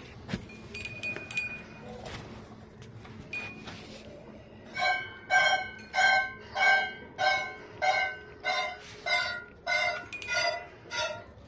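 Hand-milking of a cow into a metal pail: regular jets of milk hit the pail a little under twice a second, each stroke a hissing squirt with a ringing metallic note, starting about a third of the way in. A few small metal clinks come before.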